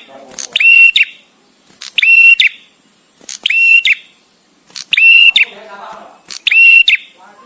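A male prenjak tamu (a prinia) calling: about five loud, whistled notes, each about half a second long on a steady pitch with a quick flick up at each end, repeated evenly with short pauses between them.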